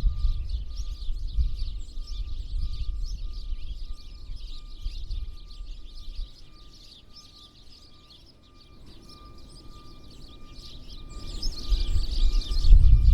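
Many small birds chirping and twittering continuously, with a low wind rumble on the microphone that fades after the first few seconds and builds again near the end. A faint steady high tone hums underneath.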